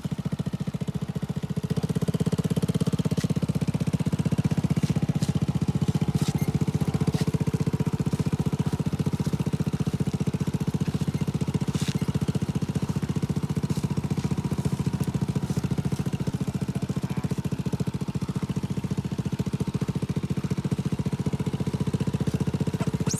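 Small motorcycle engine running steadily under way, a fast, even pulsing that gets a little louder about two seconds in.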